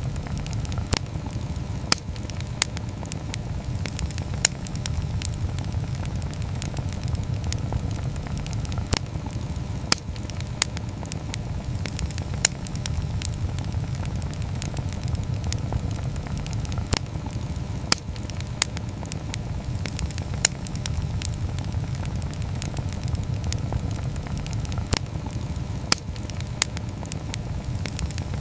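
Wood campfire burning: a steady low rumble of flames with irregular sharp crackles and pops, roughly one a second.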